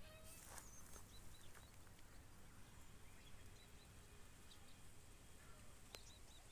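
Quiet countryside ambience with faint, short bird chirps now and then, and a brief rustle about half a second in.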